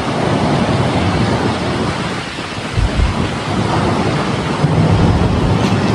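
Storm wind rushing and buffeting the microphone, a loud steady noise with heavy low rumbling.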